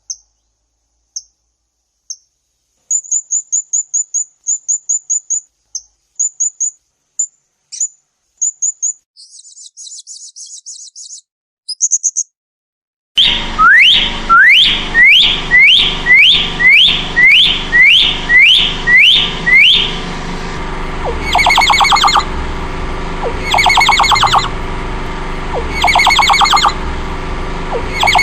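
Songbird calls: scattered short high chirps and brief trills. About halfway through, a quick run of downward-sweeping whistles comes about two a second, then trilled phrases repeat every couple of seconds.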